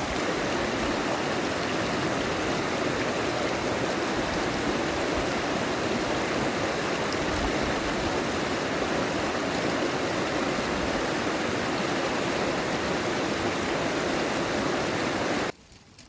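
Stream water rushing steadily, cutting off abruptly near the end.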